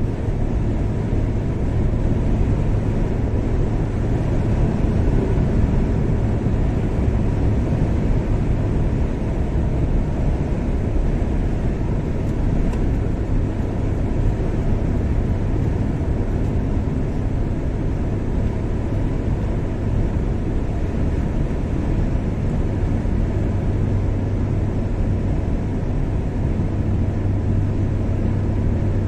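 A car driving at a steady speed: a constant engine and tyre noise with a low hum that holds unchanged throughout.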